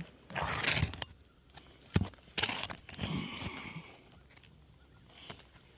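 Scraping and rustling of brittle 3-tab asphalt shingles and felt paper being pried up and handled, in short bursts, with a sharp knock about two seconds in.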